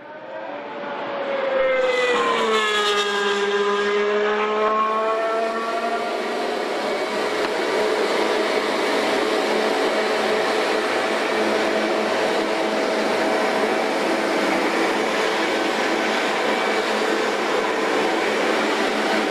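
A 2016 Formula One car's 1.6-litre turbocharged V6 hybrid engine running loud. Its pitch falls over the first few seconds, then holds steady.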